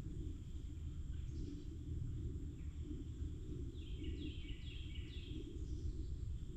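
Forest ambience: a steady low rumble under scattered birdsong. Near the end a bird gives a quick run of about four falling notes.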